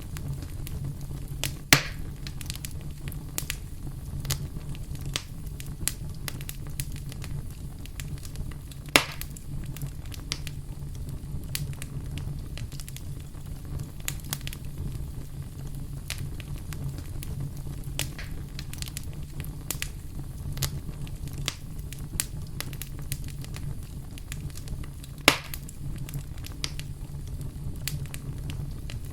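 Wood campfire crackling, with many small snaps and three much louder pops spread through, over a steady low rumble.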